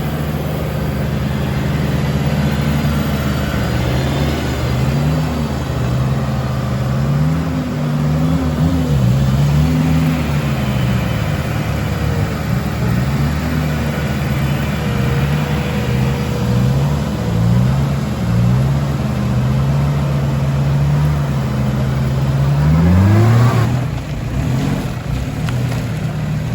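Off-road 4x4's engine revving up and down over and over, and a hard climbing rev near the end that drops off suddenly.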